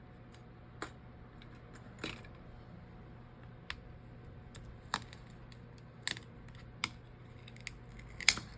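Scattered small, sharp clicks and taps, about eight of them with the loudest near the end: hand tools and small parts knocking against a smartphone as it is taken apart.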